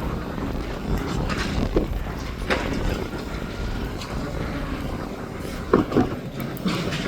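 Garbage truck engine running with a steady low rumble, broken by a few short clanks, the loudest two close together near the end.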